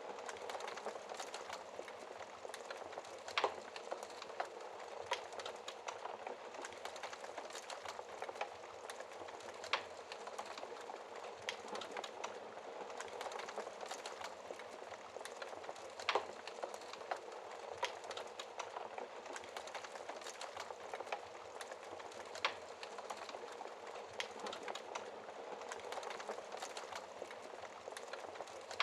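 Wood fire burning in a fireplace: a steady low rush of flames with frequent small crackles and an occasional sharper pop from the logs.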